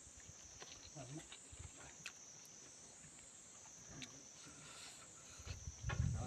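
Close-up eating sounds: scattered small wet clicks and mouth smacks of chewing, with a louder, fuller chewing or gulping noise near the end. A steady high hiss runs underneath.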